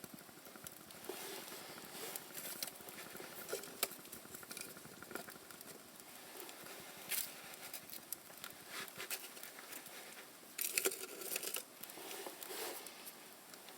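Paper and kindling being handled in a fireplace: faint scattered rustling, crinkling and light clicks, with a louder stretch of rustling near the end.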